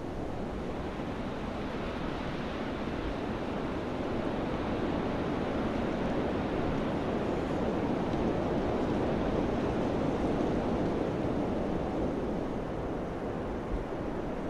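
Steady wind noise, a full low rushing that swells gradually through the middle and eases slightly near the end.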